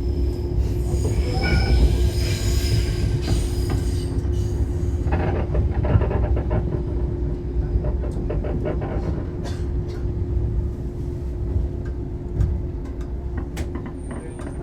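Shinano Railway 115 series electric train heard from inside the car as it slows toward a station stop: low running noise of the wheels and bogies with a steady tone throughout. High squealing from the wheels and brakes fills the first few seconds, and scattered sharp clicks follow. The sound gradually grows quieter as the train loses speed.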